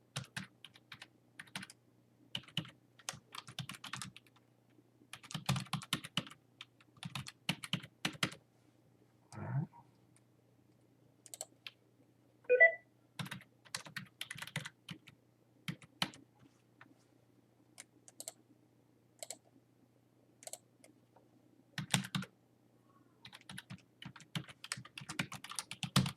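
Typing on a computer keyboard in short bursts of keystrokes with pauses between, as figures are entered into journal entries. One brief louder sound about twelve and a half seconds in stands out from the clicking.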